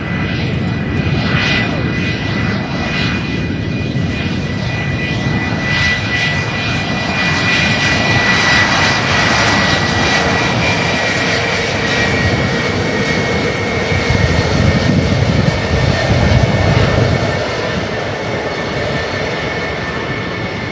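Sukhoi Su-57 fighter jet's engines running: a loud steady rush with a high whine that slides slightly down in pitch. It swells loudest about two-thirds of the way through, then eases off.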